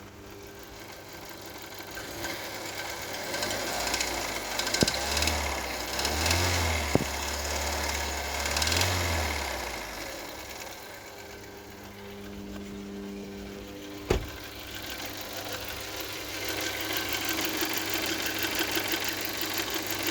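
VW 1.4 TSI (CHPA) turbocharged four-cylinder petrol engine running with a fast, even ticking knock from the top of the engine, which fades and comes back and grows plainer over the last few seconds. The knock is provisionally put down to the hydraulic lash adjusters.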